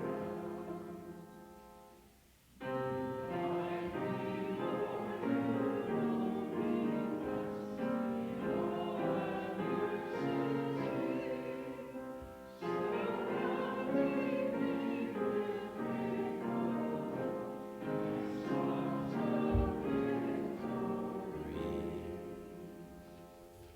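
Congregation singing a psalm with instrumental accompaniment, with brief breaks between phrases, the final chord dying away near the end.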